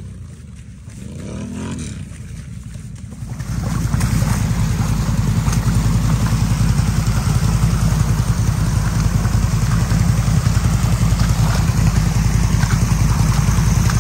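ATV engine revving up and down at moderate level, then about three and a half seconds in it gets much louder and runs on steadily under throttle with a fast, even pulse.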